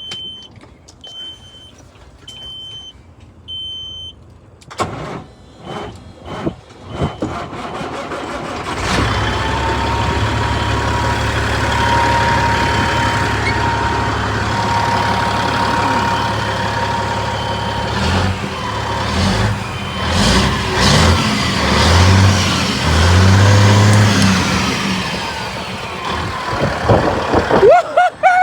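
Big-rig diesel engine, a Caterpillar by the title: a warning beep sounds a few times, then the engine cranks and catches about nine seconds in. It runs loudly with a thin steady whine, and is revved up and down several times near the end.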